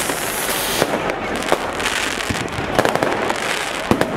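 Fireworks display: many sharp pops and bangs over a continuous rushing hiss, with a brighter, higher hiss during about the first second.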